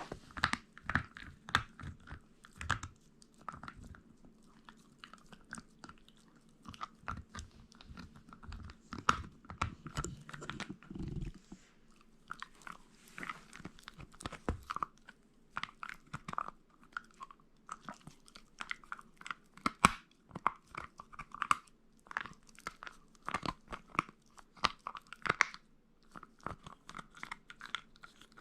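A Shiba Inu chewing and crunching on meat: irregular runs of sharp, crunching bites with short pauses between them.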